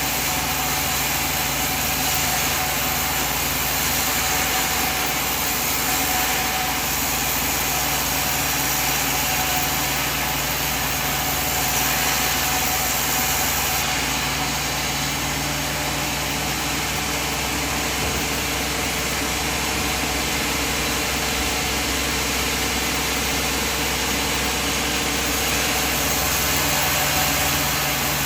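Sawmill machine running steadily, a constant mechanical drone with a slight change in the high hiss about halfway through.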